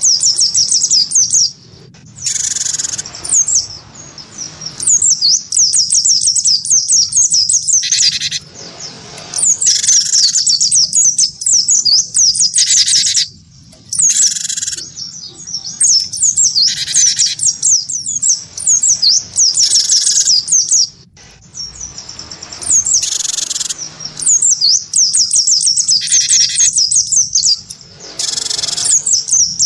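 A cinereous tit (gelatik batu) and a white-eye (pleci) singing against each other: continuous fast, high-pitched twittering, broken every two to three seconds by louder, fuller song phrases, with a few short pauses.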